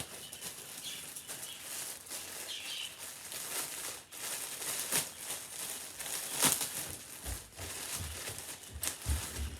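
Clothes being handled and unfolded: irregular rustling of fabric, with short sharper rustles throughout.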